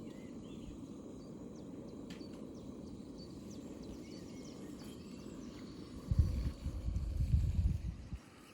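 Outdoor ambience with a steady low background and faint short high chirps, broken by wind buffeting the microphone in gusts for about two seconds near the end.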